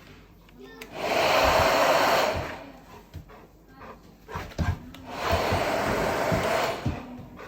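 Hair dryer blowing in two bursts of about a second and a half each, switched off in between, with a few soft knocks in the gap.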